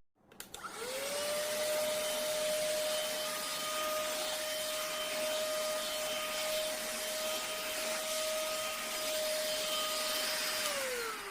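ST6101 PRO cordless handheld vacuum cleaner switched on: its motor spins up within the first second to a steady whine over an even rush of air. It runs steadily, then winds down, falling in pitch near the end as it is switched off.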